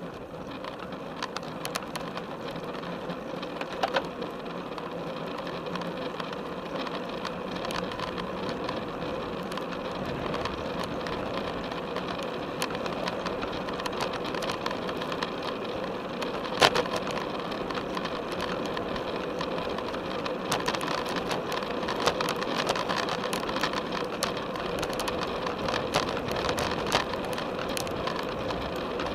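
Felt F75 road bike rolling along a paved path, heard through a camera strapped to its top tube: a steady tyre and drivetrain noise with a faint hum, growing slowly louder. Sharp knocks and rattles from bumps in the surface come through the frame, the loudest about 17 seconds in.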